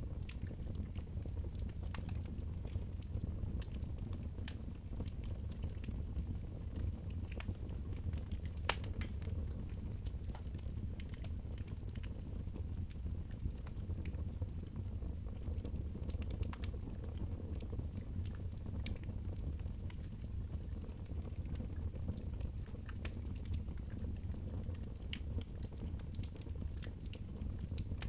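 Wood fire crackling in a fireplace, with sparse, irregular pops and snaps over a steady low rumble.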